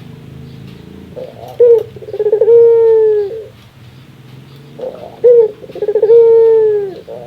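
A puter (Barbary dove) calls twice. Each call is a short rolling, stuttering note followed by a long drawn-out coo that falls at the end. Keepers count this as the dove's rare 'laughing' (ketawa) call.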